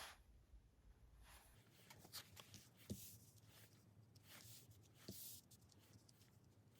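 Faint handling of tarot cards: scattered light taps and short rustles of cards against each other and the table, over quiet room tone.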